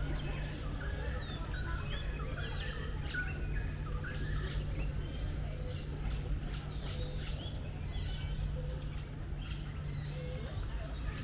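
Many birds chirping and calling, with short overlapping chirps and whistled glides, over a steady low hum.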